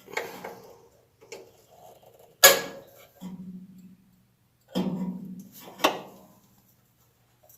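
Knocks and clanks of tools and metal parts being handled on a lawn tractor, five or so sharp hits, the loudest about two and a half seconds in. Twice a short low hum runs for under a second.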